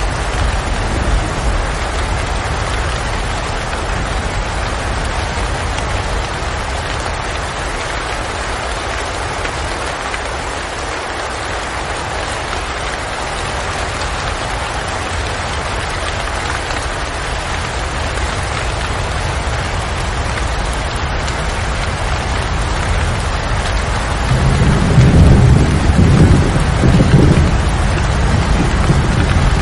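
Steady heavy rain falling, with a deep roll of thunder rumbling in and growing louder about twenty-four seconds in, lasting into the end.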